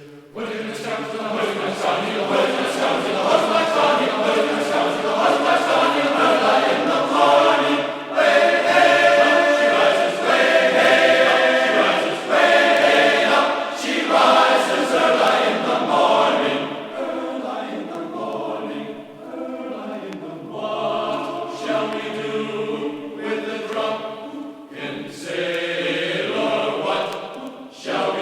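Background vocal music: a choir singing in chorus, with long held notes.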